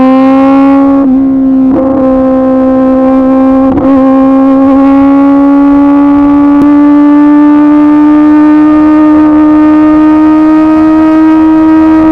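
2024 Kawasaki Ninja ZX-10R's inline-four engine through an SC-Project CRT exhaust, pulling at high revs with a steady, high note that climbs slowly in pitch. There are a few brief dips in the first four seconds.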